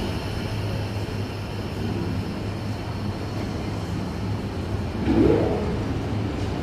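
Sydney Trains S-set double-deck electric train pulling out of the platform, a steady low rumble and hum of its motors and wheels, with a brief louder swell about five seconds in.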